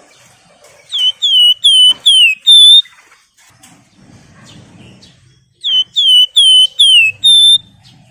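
Wergan Jawa (Javan fulvetta) singing: two loud phrases of five clear whistles, each note slurring downward and the last held level, the second phrase coming about five seconds after the first.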